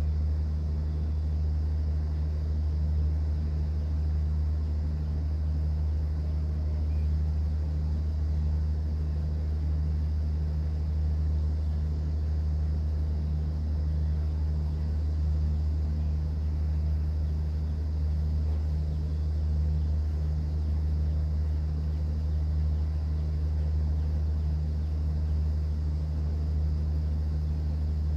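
Cruise boat's engine running with a steady low drone, over an even wash of sea water.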